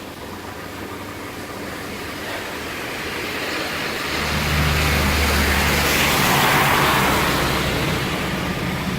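A car passing by on the road: engine hum and tyre noise swell up a few seconds in, are loudest past the middle, and fade away near the end.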